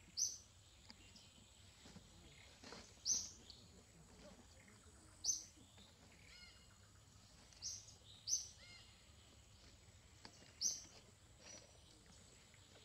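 A bird calling repeatedly in short, high chirps, about six of them spaced two to three seconds apart, with fainter calls between them. A faint, steady high tone runs underneath.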